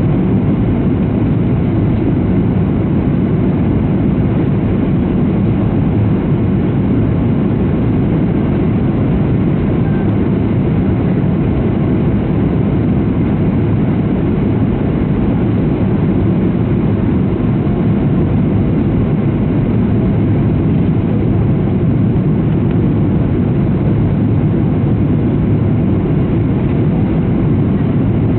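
Steady cabin roar of a Boeing 737-700 in flight, from its CFM56-7B jet engines and the airflow over the fuselage, heard at a window seat. The deep rumble holds even throughout, with no change in engine power.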